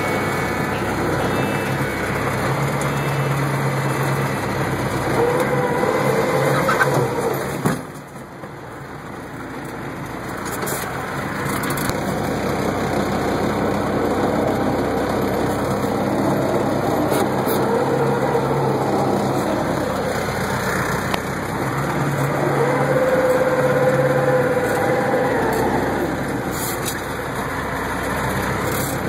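MTZ-80 tractor's four-cylinder diesel engine running under varying load, its note rising and easing several times, with a sudden dip in loudness about eight seconds in before it builds back up.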